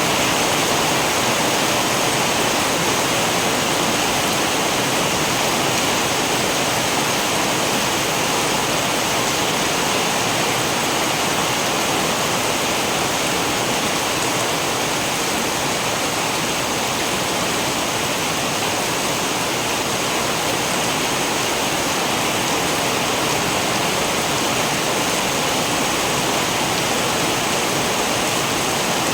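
Steady rain, an even hiss that holds without a break or any rumble of thunder.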